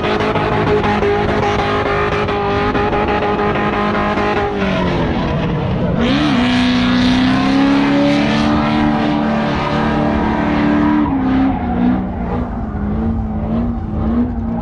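Car doing a burnout: the engine is held at steady high revs with spinning tyres hissing. About 4.5 s in the revs dip, then climb back and hold, with the tyre noise louder. After about 11 s the revs fall and rise unevenly.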